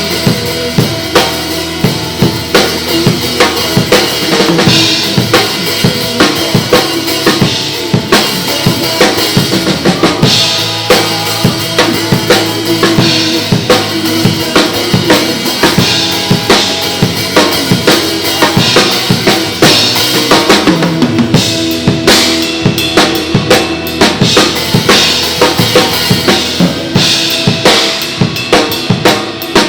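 Drum kit played live over a music backing track: a steady beat of kick and snare hits with cymbal wash, and the recorded song's sustained chords underneath.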